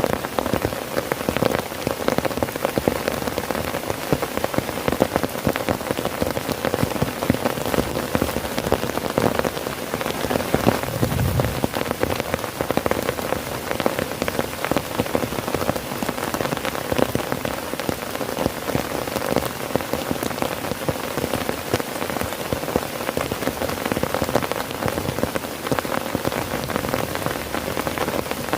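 Heavy rain drumming steadily on a tent, a dense patter of drops.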